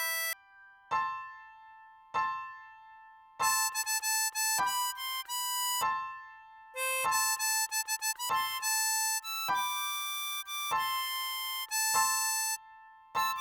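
Diatonic harmonica playing a melody note by note, in short phrases separated by brief pauses, with some held notes dying away.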